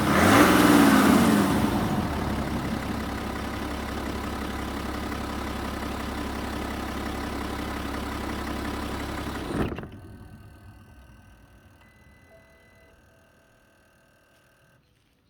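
BMW N57D30A 3.0-litre twin-turbo straight-six diesel revved briefly once, dropping back to a steady idle. About ten seconds in it cuts off and its sound dies away to near silence.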